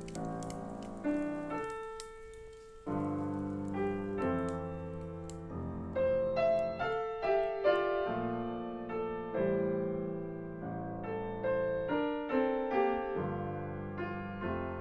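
Solo piano playing a slow, gentle original piece: chords and melody notes struck and left to ring. There are faint crisp ticks behind it for the first few seconds.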